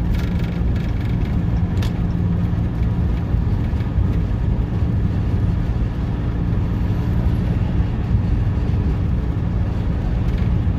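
2019 Ram 5500's 6.7 L Cummins turbo-diesel running steadily on a downgrade at about 45 mph with the exhaust brake engaged, holding speed without the service brakes, over steady road and tyre noise.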